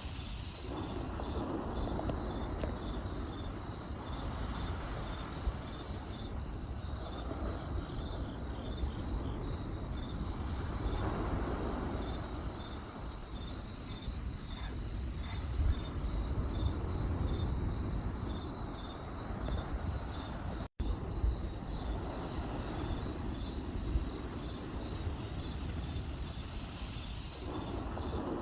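Campfire crackling with sparse sharp pops over a low rumble, while crickets chirp continuously in a high, pulsing trill. The sound cuts out for an instant about two-thirds of the way through.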